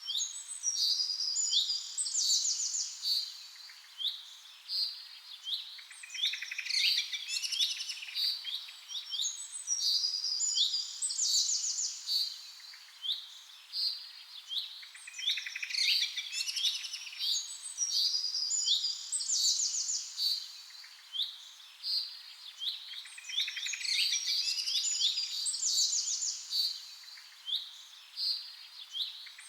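Bird song: a phrase of quick high chirps and a fast trill, repeated over and over about every four seconds.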